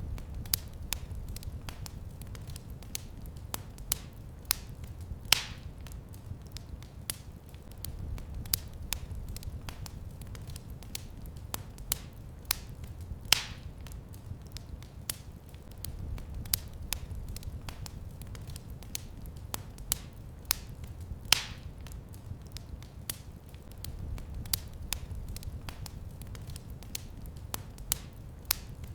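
Wood fire crackling in a fireplace: frequent small sharp snaps and a few louder pops, about every eight seconds, over a low steady rumble of flame.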